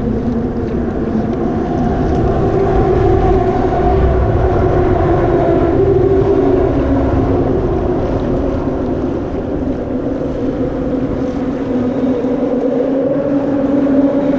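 Boat motor running steadily, its drone drifting slowly in pitch, with wind rumbling on the microphone.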